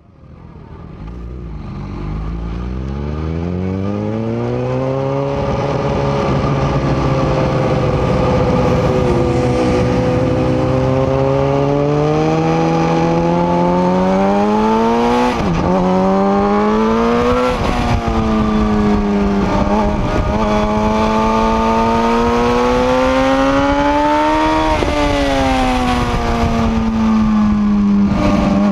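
Suzuki GSX-R 750 K6 inline-four sportbike engine heard on board at track speed, revving up and falling back repeatedly through gear changes and corners, with wind rushing over the bike. The sound fades in over the first few seconds.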